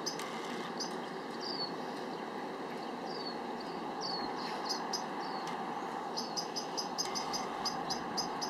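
High, short chirps of a small bird, some in quick runs of about four a second, others sliding down in pitch, over a steady background rumble.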